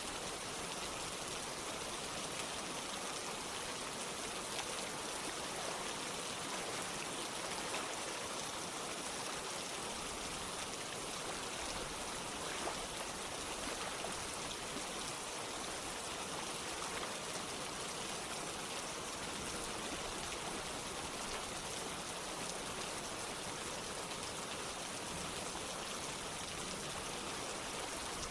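Rain mixed with running water, an even, steady hiss.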